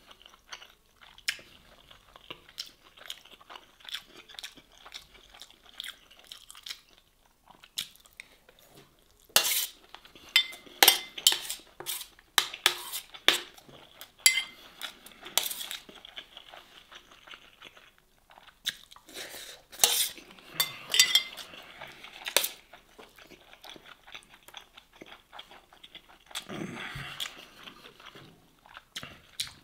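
Close-up mouth sounds of eating grilled masgouf fish and rice: chewing and crunching in irregular bursts, heaviest in two spells around the middle, with a spoon clinking against the steel tray.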